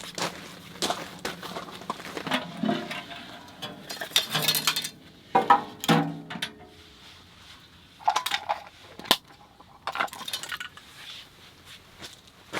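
Camping gear being handled: a string of irregular clinks and knocks, a few ringing briefly, mixed with short bursts of rustling.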